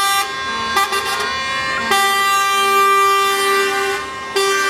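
Truck air horns blasting in long, sustained chords, several horns sounding together. The horns break off briefly about a third of a second in and again just before the end.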